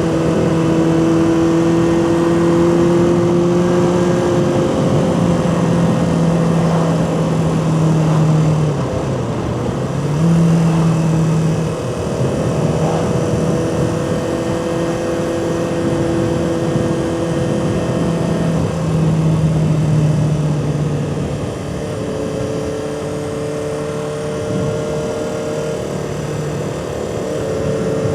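Honda CB400/4 Super Sport's air-cooled inline four-cylinder engine running steadily under way, over wind and road noise. The engine note dips about nine seconds in and climbs again a second later, then changes pitch a few more times.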